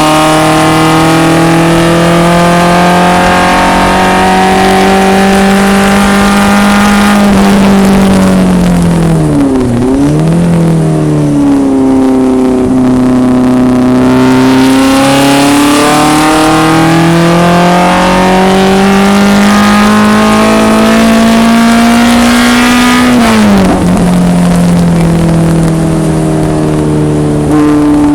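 BMW 2002 race car's engine at racing speed: revs fall under braking with a quick downshift about ten seconds in, then climb steadily in one long pull before dropping sharply again near the end.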